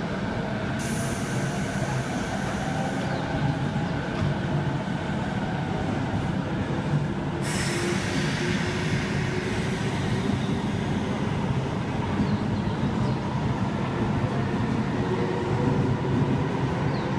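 JR 185 series electric express train pulling away from a station platform: a steady drone from the train and its traction motors, with a faint whine rising slowly in pitch as it gathers speed. Two spells of hissing come over it, the first about a second in and the second about halfway through.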